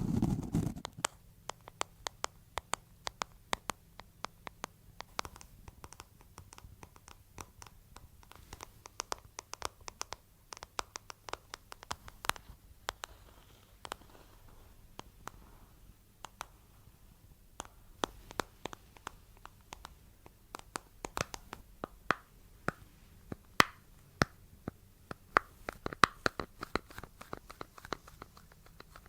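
Close-miked scratching and tapping: many quick, sharp clicks coming in irregular clusters, after a brief low rumble in the first second.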